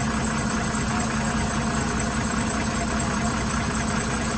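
A heavy vehicle's engine idling steadily.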